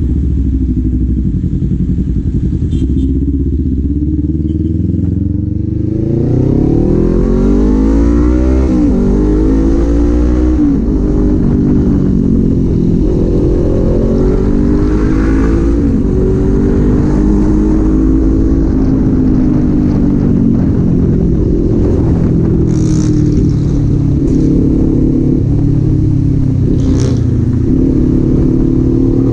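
Kawasaki Z400's parallel-twin engine turning over at low, steady revs, then from about six seconds in revving up and pulling away through the gears, its pitch climbing and dropping back at each shift.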